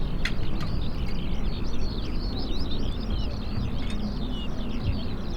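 Many small birds chirping and twittering at once, a dense stream of quick, overlapping chirps, over a steady low rumble.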